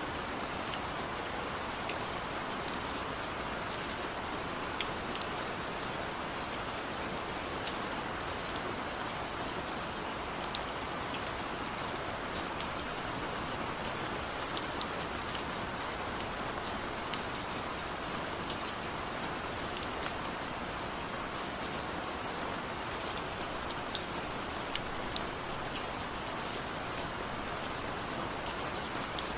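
Steady rain falling, an even hiss with scattered sharp drips and ticks of drops landing close by.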